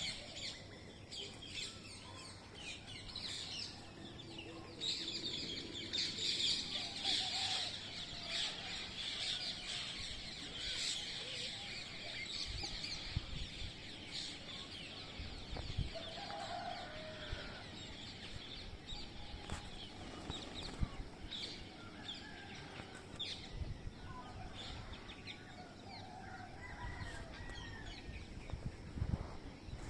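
Green parrots calling: many short, shrill calls that crowd together in the first third and thin out after, with a few lower calls and knocks scattered through.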